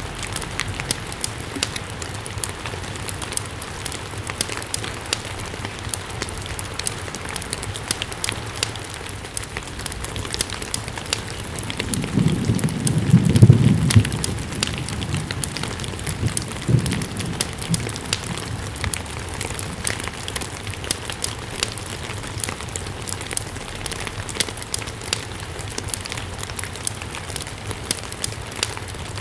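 Steady rain with many small ticks and crackles through it. A low rumble swells a little before halfway and is the loudest moment, with a smaller one a few seconds later.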